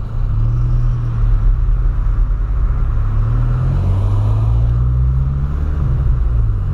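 Engine and road noise of a 2008 Volkswagen Polo Sedan, heard from inside the cabin while driving. The engine note rises with the revs, then falls back near the end.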